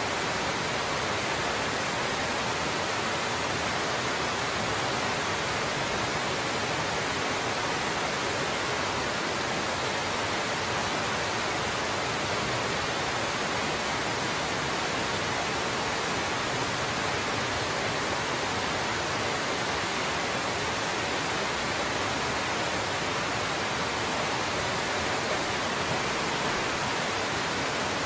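Winter waterfall running steadily: an even, unbroken rush of falling water.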